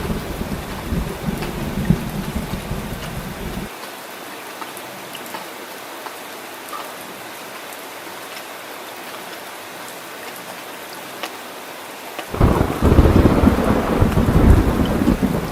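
Steady heavy rain falling, with deep thunder rumbling at first. The rumble breaks off abruptly a few seconds in, leaving only the rain hiss, then a loud new roll of thunder comes in suddenly near the end.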